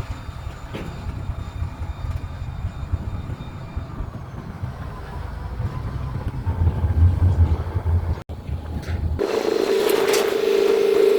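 Diesel freight locomotives rumbling low and steady, swelling a little about seven seconds in. The rumble cuts off suddenly about nine seconds in, and a loud, steady locomotive horn chord begins.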